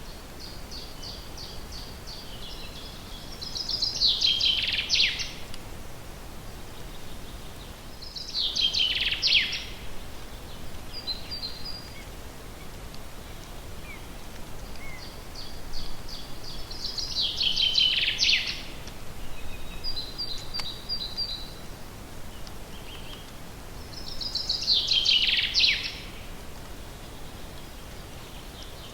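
A songbird singing the same short phrase four times, several seconds apart: a run of repeated high notes that speeds into a dense, falling flourish. Softer scattered chirps sit between the phrases, over a steady background hiss.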